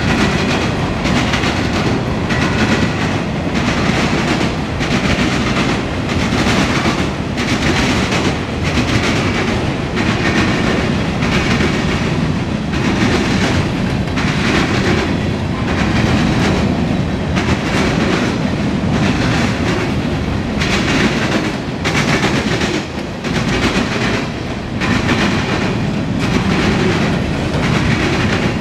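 Tank cars and covered hopper cars of a freight train rolling past. Their wheels clack over the rail joints in a steady, repeating rhythm over a continuous rumble.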